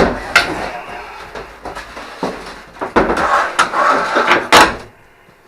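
A sharp metal clank, then rattling and scraping with more clanks, the loudest near the end, as metal parts are handled on the bench. It stops just before the end.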